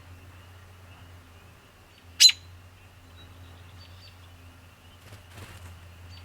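A single short, sharp bird chirp about two seconds in, over a faint steady low hum.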